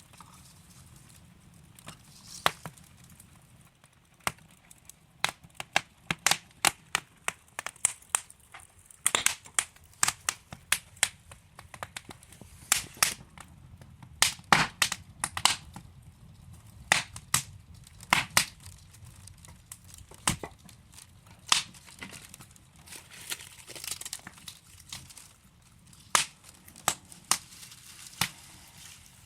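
Wood fire crackling: logs burning in a fireplace, giving irregular sharp pops and snaps over a soft, steady hiss, with thicker clusters of pops through the middle.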